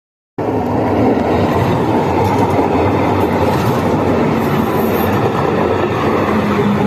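Üstra TW6000 light-rail tram running along the track: a steady rumble of wheels on rail, cutting in about half a second in.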